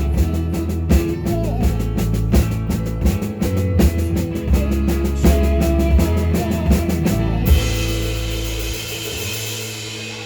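Live rock band playing with drum kit, bass and guitars, the song ending about three-quarters of the way through on a final hit, with the cymbals and guitar chord ringing on and slowly fading.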